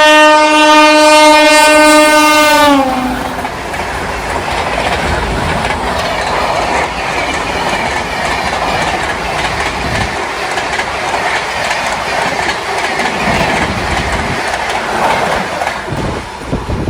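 Indian Railways express train passing at speed: the locomotive's horn sounds one long steady note that drops slightly in pitch and cuts off about three seconds in. Then the coaches rush past with a steady roar of wheels on rail and occasional clatter over rail joints.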